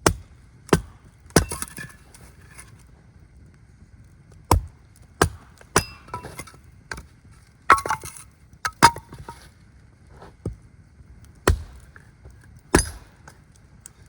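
Wood being broken up by hand work: about a dozen sharp knocks and snaps at uneven intervals, several followed by a short rustle of twigs or needles.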